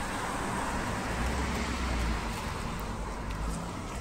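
Road traffic: a car passing, its low rumble swelling to a peak about two seconds in and then fading, over a steady hiss of street noise.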